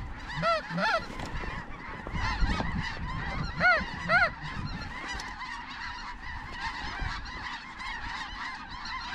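A flock of snow geese calling, a dense chorus of overlapping high honks, with a few louder, clearer calls about half a second, one second and four seconds in.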